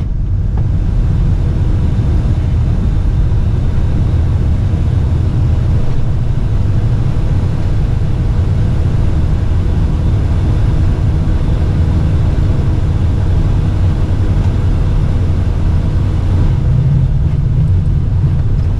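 Steady low rumble of an aircraft heard inside the cockpit, holding an even level throughout.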